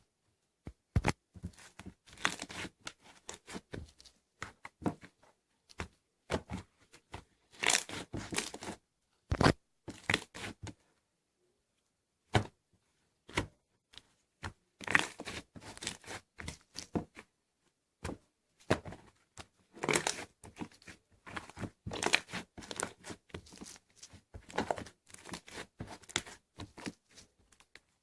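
Slime worked by hand, squeezed and pulled to make irregular runs of sticky clicks, pops and crackles, with a short pause about eleven seconds in.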